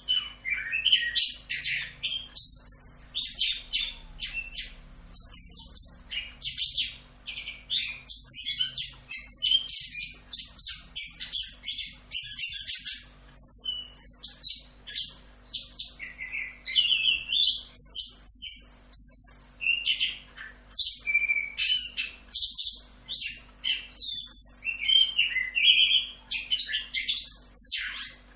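Orange-headed thrush singing a long, continuous run of quick, varied chirps and whistles with hardly a pause.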